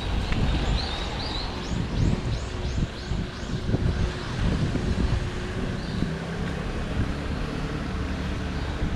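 Outdoor ambience: a steady rushing noise with low rumble, as of wind on the microphone or traffic, with a bird chirping a quick run of short high notes in the first few seconds. A low engine-like hum sets in near the middle.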